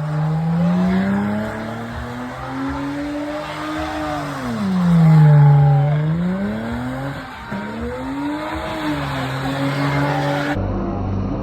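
A car engine revving up and down several times over squealing tyres, as in a burnout or drift. Near the end it gives way abruptly to a steadier engine drone.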